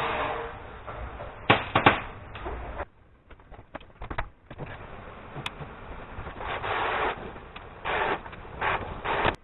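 Irregular handling noises: a few sharp knocks and short scraping rustles, the two loudest knocks about one and a half to two seconds in. A steady noise fades out at the very start.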